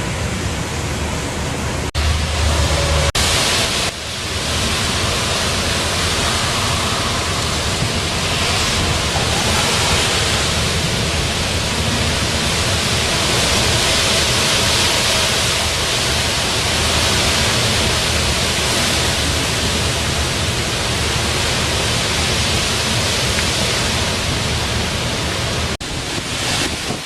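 Tropical-storm wind gusting with driving rain: a dense, steady rush of noise that builds through the middle. Wind buffets the microphone with a low rumble about two seconds in.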